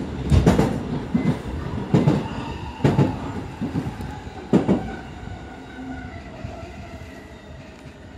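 JR Keiyo Line electric commuter train heard from inside the car as it slows for a station: the wheels knock over rail joints a few times in the first five seconds, then the rolling noise fades and a motor whine falls in pitch as the train brakes.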